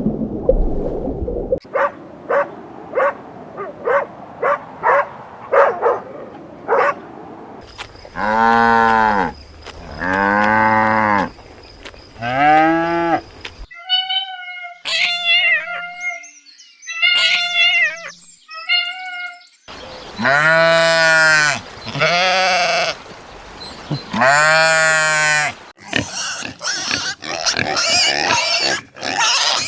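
Goats bleating: three long bleats, then a run of higher, shorter bleats, then three more long bleats. A run of short, quick animal calls comes first, and a different, noisier stretch of calls follows near the end.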